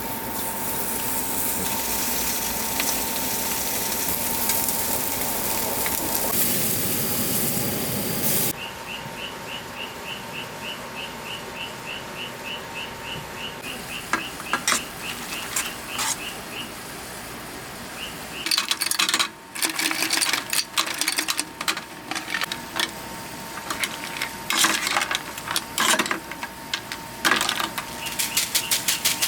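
A loud even hiss, then a cricket chirping at a steady pace of about three chirps a second for several seconds, then irregular sharp clicks and crackles.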